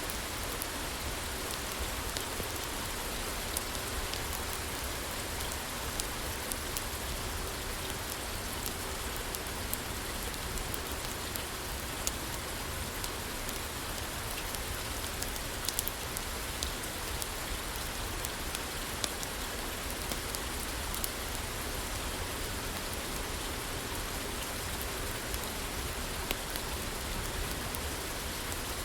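Steady rain falling on a roof, an even hiss with scattered sharp ticks and pops throughout.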